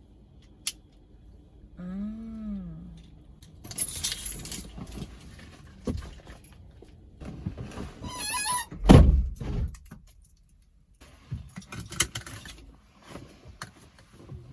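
Car keys jangling and rattling with scattered rustling and clicking handling noises inside a car, a short rising-and-falling tone about two seconds in, and a heavy low thump about nine seconds in.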